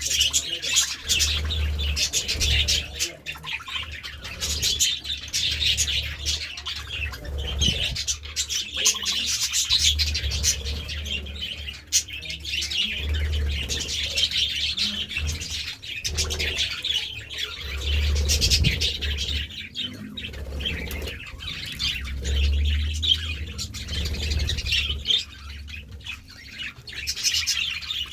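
A group of budgerigars chirping and chattering continuously, with quick high twitters and squawks, over an intermittent low rumble.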